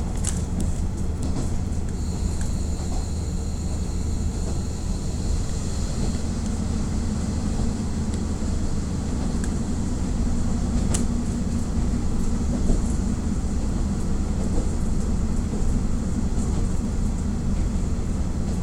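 KiHa 48 diesel railcar running along the line, heard from inside the car: a steady low engine drone mixed with wheel and rail noise. A faint thin high whistle sounds for a few seconds early on.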